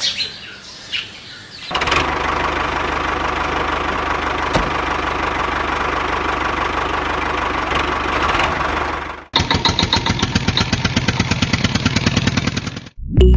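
A motor runs steadily with a high hum for several seconds and then stops abruptly. A different, rapidly chugging engine-like sound follows for a few seconds and cuts off near the end.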